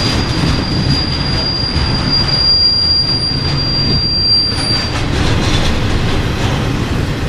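Intermodal freight cars carrying truck trailers rolling past, their wheels rumbling steadily on the rails. A thin, steady, high-pitched wheel squeal runs over the rumble and stops about five seconds in.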